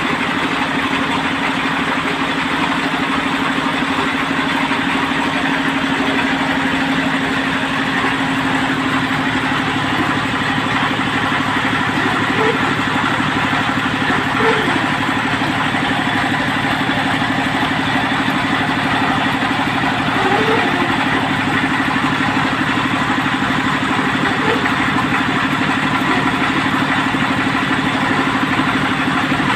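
Engine of a water-well drilling machine running steadily at an even speed.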